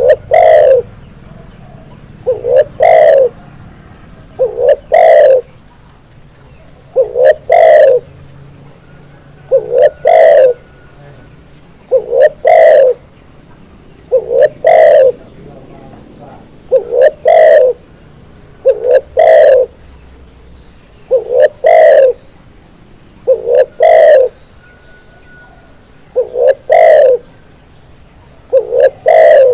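Spotted dove (tekukur) cooing, repeating its call about every two and a half seconds. Each call is a short note followed by a longer, two-part coo.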